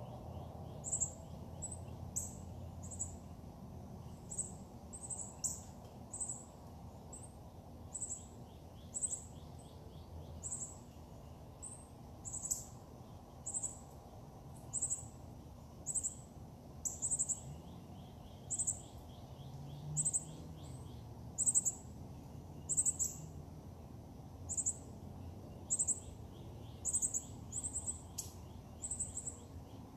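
A bird calling with short, very high-pitched chirps repeated about once a second, with a faint rapid trill underneath at times, over a steady low background rumble.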